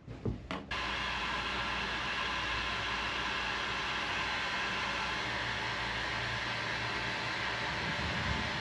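Heat gun switched on about a second in and running steadily: a constant hiss of blown air over a faint low hum.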